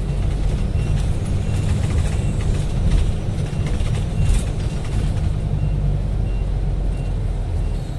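Steady low rumble of a running road vehicle, with a few faint clicks.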